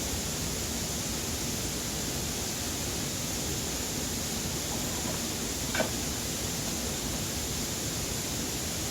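Steady, even rushing noise throughout, with one brief faint higher sound a little under six seconds in.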